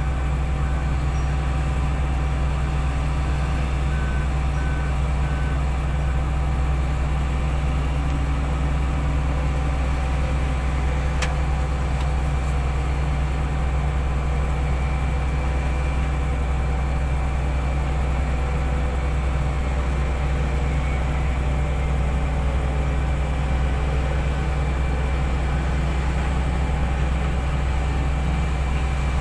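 Heavy equipment engine running steadily with a deep, even drone. A few seconds in, a faint backup alarm beeps several times in a row.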